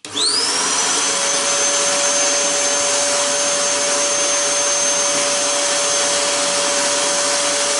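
Vacuum cleaner switched on to clear loose glass chips and slivers from a glass-cutting bench: its motor whine rises quickly as it spins up, then runs steadily with a loud airflow hiss.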